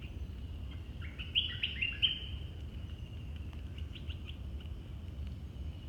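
Songbird calling: a quick run of short, clear whistled notes stepping up and down about a second in, then a few fainter notes near four seconds, over a steady high-pitched drone.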